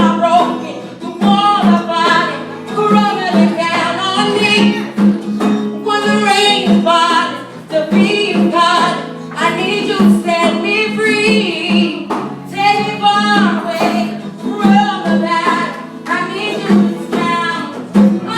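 A song performed: a woman singing with instrumental accompaniment.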